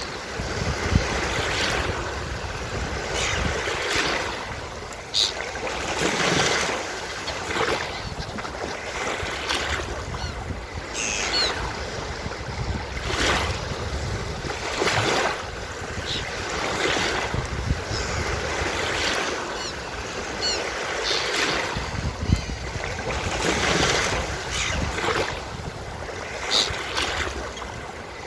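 Ocean surf on a beach: waves breaking and washing in, rising and falling in repeated surges every second or two, with a few short low thumps.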